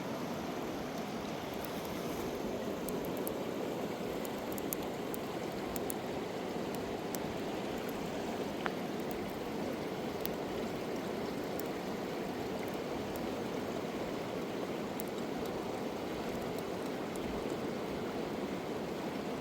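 Steady rush of flowing river water, with faint scattered ticks on top.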